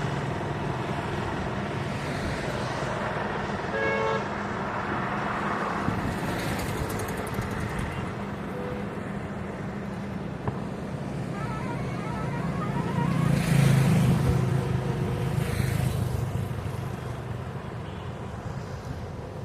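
Roadside highway traffic: steady engine noise of passing vehicles, with a short horn toot about four seconds in and the loudest vehicle passing about two-thirds of the way through.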